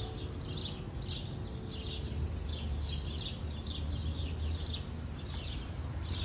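Small birds chirping: a steady run of short, high chirps, two or three a second, over a low rumble of background noise.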